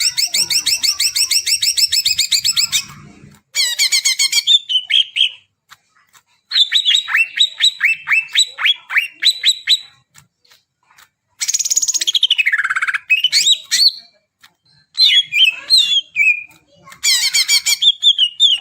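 Cucak ijo (green leafbird) singing in bursts of rapid, chattering trills and sweeping whistled notes. The song comes in about six phrases with brief pauses between them.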